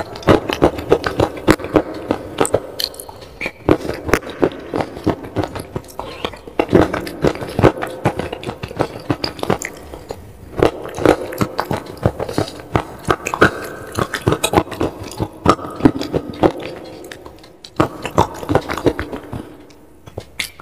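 Close-miked crunching and chewing of slate pencil crumbles mixed into a wet paste, a rapid run of sharp crackles with short pauses between mouthfuls, and a metal spoon scraping the glass bowl.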